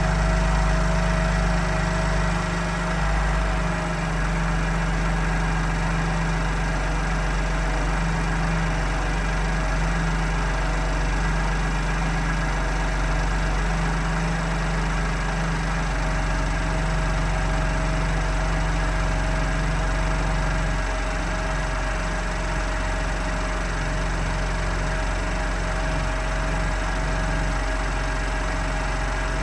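2020 BMW M2 Competition's twin-turbo 3.0-litre inline-six idling steadily after a cold start, the engine still cold.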